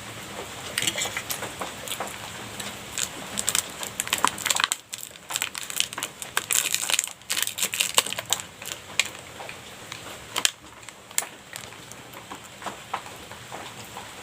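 Close-miked eating: irregular wet clicks, smacks and crackles of someone chewing a cream pastry, coming in dense clusters.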